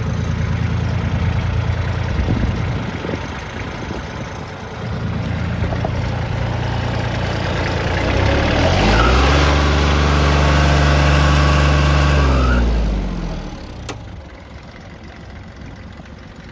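Kubota L2900 tractor's three-cylinder diesel engine running, then revved up about eight seconds in. It is held at high speed for about four seconds before dropping back down, after which it is much quieter.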